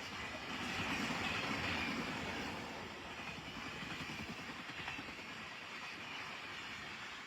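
Indian Railways express train running past: a steady rumble and rail noise that is loudest about one to two seconds in, then slowly eases off.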